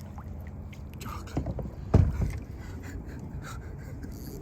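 Scrapes and knocks of handling in a kayak, with one louder thump about two seconds in, over a low rumble.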